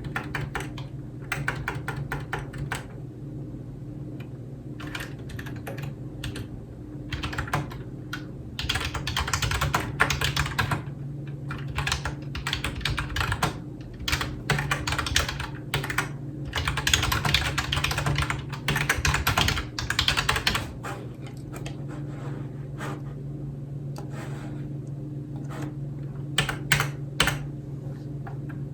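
Typing on a computer keyboard: runs of rapid key clicks broken by short pauses, over a steady low hum.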